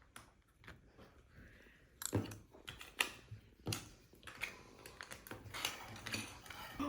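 A run of small, hard clicks and clatters of objects being handled, growing busier about two seconds in.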